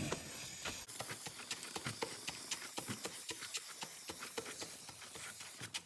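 Faint, irregular light clicks and ticks, several a second, over a low hiss.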